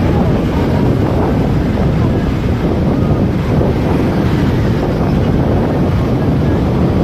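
Steady wind noise rushing over the microphone of a moving motorcycle, with the bike's road and engine noise underneath.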